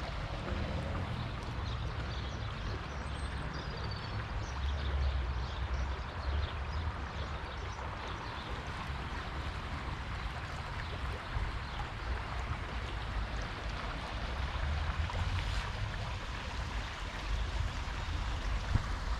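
The River Cole in flood: a steady rush of fast, swollen water, with wind buffeting the microphone in uneven low rumbles.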